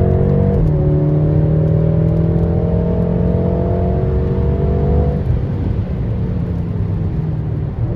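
BMW M6 Competition's twin-turbo V8 accelerating hard. It shifts up about half a second in, pulls rising in pitch through the next gear, then comes off the throttle about five seconds in, dropping to a lower, quieter note.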